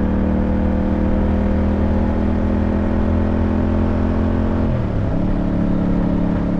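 Yamaha MT-07 parallel-twin motorcycle engine running steadily under way, its pitch dipping briefly and recovering about five seconds in.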